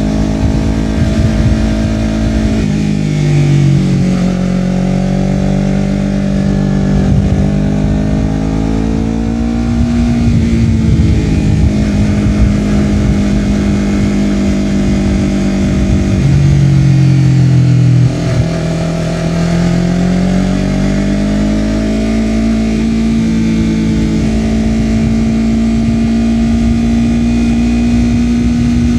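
Honda CBR250RR parallel-twin engine running through a Yoshimura R-11 slip-on exhaust while the bike is ridden. The pitch drops sharply a few times and climbs steadily in between as the revs rise and fall.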